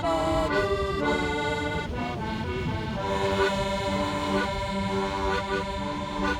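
Accordion playing a trot-style melody over held chords, the notes changing every half-second or so.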